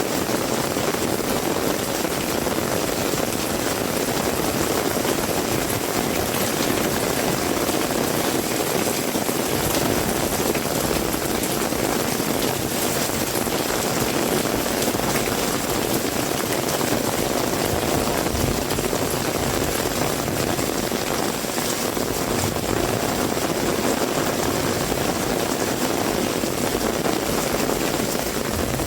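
Heavy rain falling steadily, with a low rumble that comes in about a third of the way through and fades out about two-thirds of the way through.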